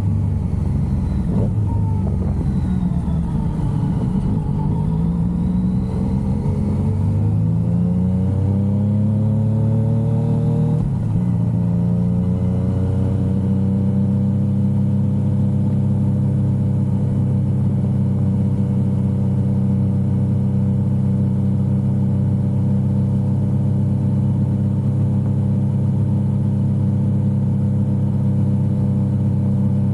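Yamaha XSR900's inline three-cylinder engine under way. It runs low and rough at first, then rises in pitch as the bike accelerates, with a brief break and drop in pitch about eleven seconds in as it shifts up a gear. From there it holds a steady tone at cruising speed.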